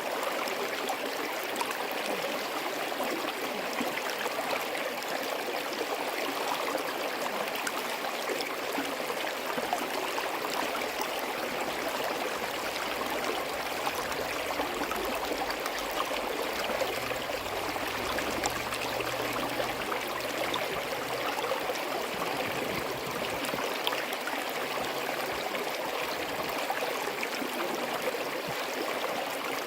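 Small forest stream running steadily over rocks, a continuous babble and gurgle of flowing water.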